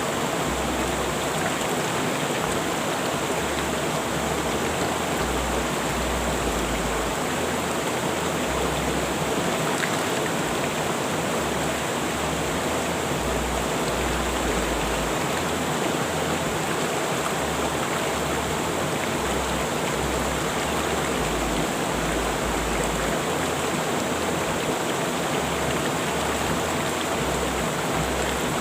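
River water rushing over rocks in a steady, unbroken flow.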